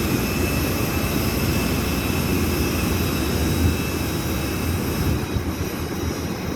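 Airliner turbine engines running on the apron: a steady rumble under a thin high-pitched whine, the whine easing slightly near the end.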